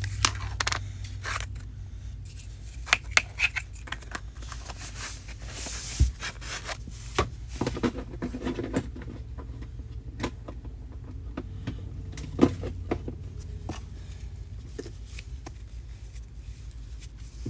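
Handling noise from squishy toys and plastic containers being moved and packed: scattered clicks, taps, scrapes and rustles over a low steady hum.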